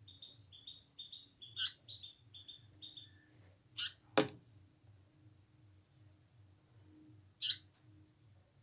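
Indian paradise flycatcher calling indoors: a run of about eight short, even chirps over the first three seconds, then three loud, sharp calls spaced a few seconds apart. A single knock sounds about four seconds in, over a faint low pulsing hum.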